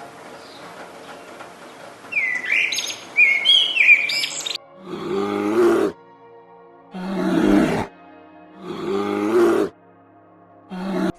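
Bird chirps with quick pitch sweeps, followed by three drawn-out pitched animal calls of about a second each and a short fourth one near the end.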